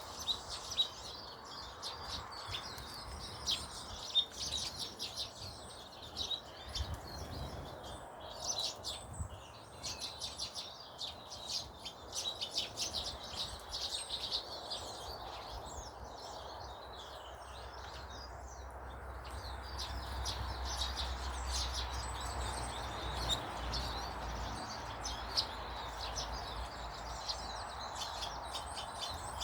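Many small birds chirping and twittering in quick, overlapping calls over a steady background hiss, with a low rumble coming in past the middle.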